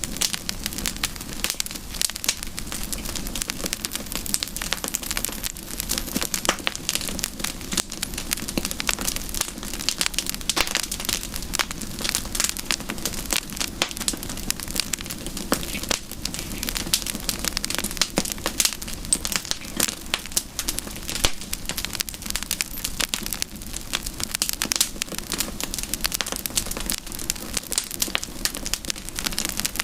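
Wood campfire burning with steady, dense crackling and frequent sharp pops.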